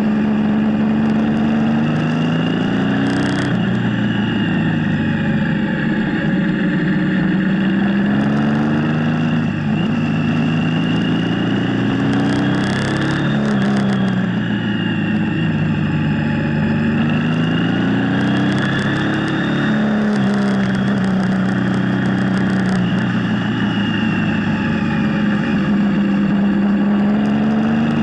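Motorcycle engine running under way, its revs climbing and falling back several times, over a steady hiss.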